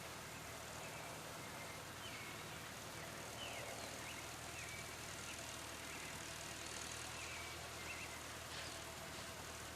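Massey Ferguson tractor engine running steadily as a faint low hum, with birds chirping in short calls throughout.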